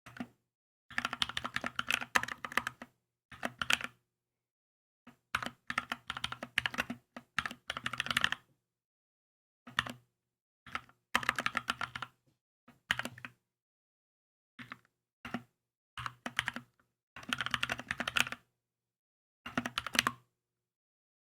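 Typing on a Keychron K2 mechanical keyboard: short bursts of rapid keystrokes separated by silent pauses of a second or so.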